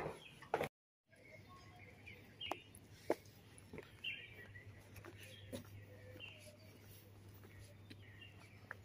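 Small birds chirping now and then over a steady low hum, with a few sharp taps. The sound drops out completely for a moment about a second in.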